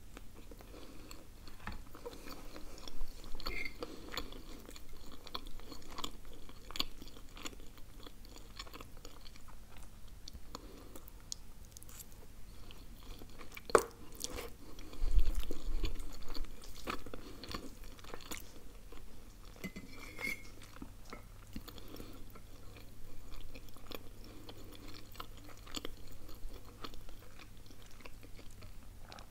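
Close-up chewing and mouth sounds of a person eating pizza and then spaghetti carbonara, with many small wet clicks and smacks. About halfway through there is a sharp click, and just after it a low thump, the loudest sound.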